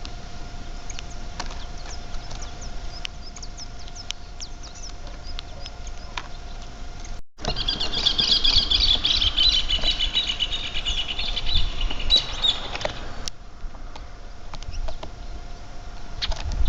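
Small birds chirping: scattered short high chirps over a faint steady whine at first, then, after a cut, a dense run of rapid high twittering for about five seconds that stops abruptly.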